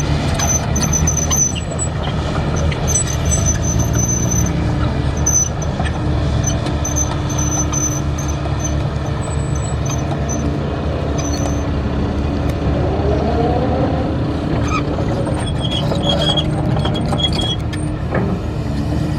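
Heavy diesel construction machinery running steadily, with short high-pitched squeals on and off and the engine rising in pitch about two-thirds of the way through.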